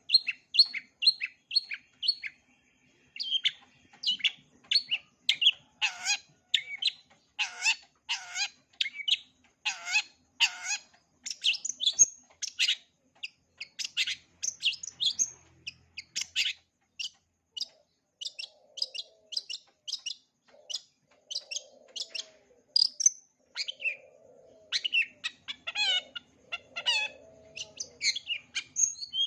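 Long-tailed shrike singing a long run of short, sharp notes in quick succession, many sliding downward. Softer, lower warbling phrases are mixed in during the second half. It is a full song laced with mimicry of other birds.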